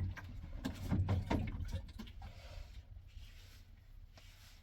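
A few dull thumps and knocks bunched in the first two seconds, the loudest at the very start and about a second in, then only a faint background.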